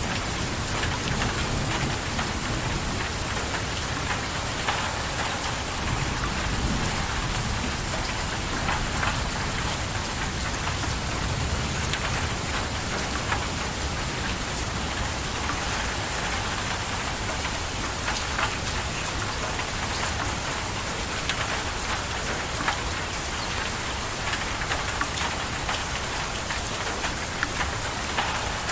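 Steady rain falling on a surface, with scattered individual drop ticks. A low rumble of thunder dies away in the first second or so.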